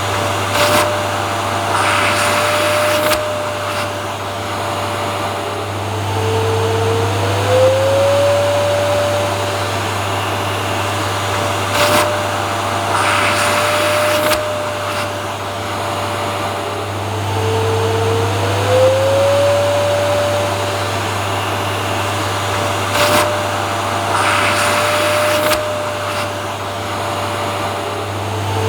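Vacuum cleaner motor running steadily, with a whine that dips lower and climbs back about every eleven seconds and short louder rushes of air on the same cycle.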